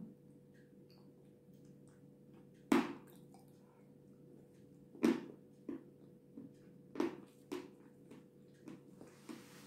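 Close-up eating sounds: biting and chewing a soft, creamy white food, with a few sharp smacks near 3, 5 and 7 seconds in and quieter chewing between, over a steady low hum.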